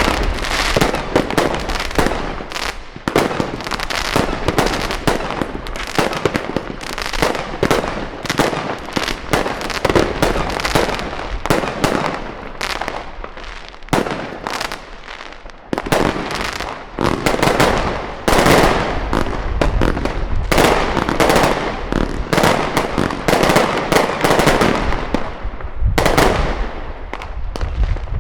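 Fireworks going off in rapid succession: a dense, continuous run of bangs and crackles, thinning briefly about halfway through before picking up again.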